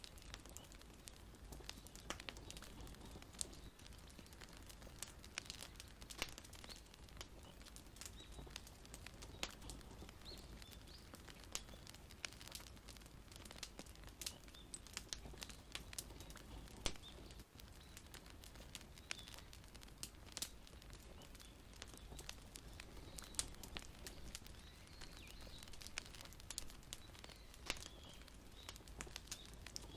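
Wood fire crackling: quiet, irregular sharp pops and snaps over a low steady hiss, with an occasional louder pop.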